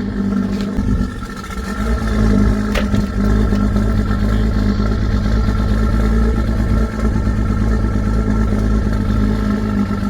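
Car engine running steadily on its first cold start after sitting, a little louder from about two seconds in. A single sharp click about three seconds in.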